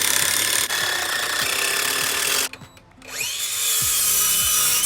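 Power drill driving screws into the wooden bed-frame platform, in two long runs with a short pause between; the second run spins up with a rising whine.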